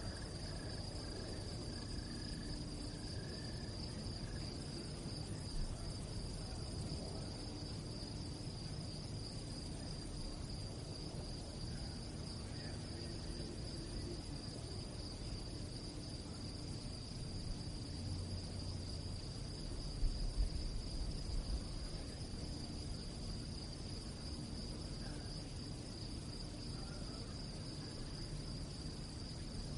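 Crickets chirping in a steady, unbroken high trill, with a few low bumps about two-thirds of the way through.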